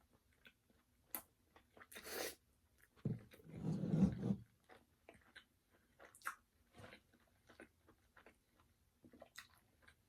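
Close-up eating sounds of spicy fried chicken: crunchy bites and chewing with scattered wet mouth clicks. There is a brief crunch about two seconds in and a louder, deeper stretch of chewing between about three and four and a half seconds.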